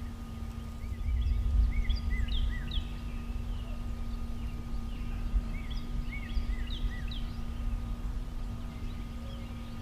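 Birds chirping in two bouts of short, quick notes, over a low rumble that swells about a second in and a steady low hum.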